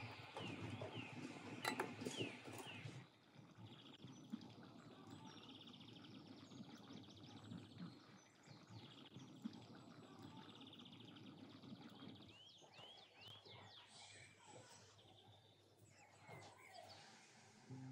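Quiet rural ambience with songbirds: a run of short repeated chirps at first, then a fast high trill for several seconds, then more chirps. A few light clicks in the first two seconds.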